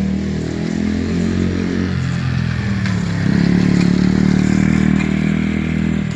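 Small single-cylinder four-stroke engine of a Baja DR50XR pit bike running as it is ridden, the engine note getting louder and a little higher about three seconds in as the rider opens the throttle.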